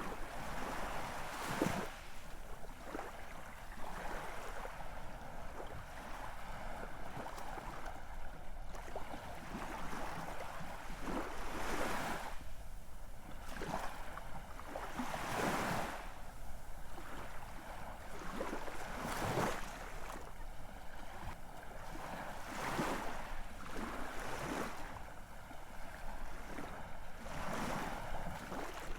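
Ocean waves washing in, a steady hiss of surf with a fresh surge every two to four seconds.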